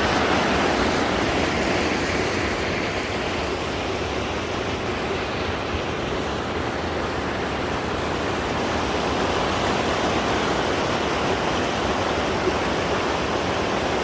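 Steady rushing of a mountain waterfall running high with monsoon rain, an even wash of falling water with no breaks, a little duller for a few seconds in the middle.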